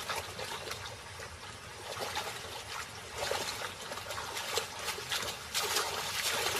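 Shallow river water splashing and trickling in an uneven run of small splashes as Grant's gazelles wade across, the water only a few centimetres deep.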